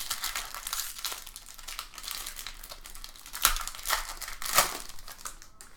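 Crinkling and crackling of a trading-card pack wrapper being handled, with two louder sharp crackles in the second half.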